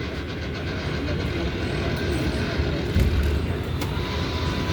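Interior of an R188 subway car running on the 7 line: a steady low rumble of wheels on rail with a few faint clicks. A steady high tone comes in near the end.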